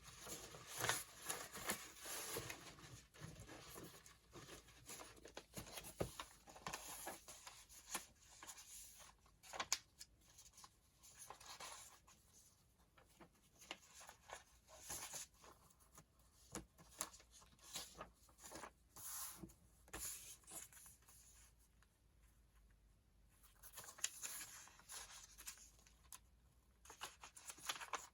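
Paper being handled and folded: faint, intermittent rustling with light taps and clicks.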